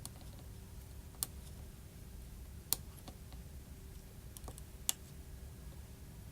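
A handful of sharp, light clicks, a second or two apart, of small metal repair tools and parts touching the opened iPhone 6 Plus's internals, over a steady low hum.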